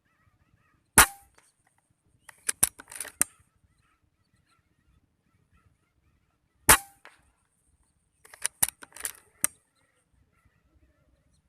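Two sharp air rifle shots about six seconds apart, each followed a second or so later by a quick cluster of clicks and rustling. Faint bird chirps in the background.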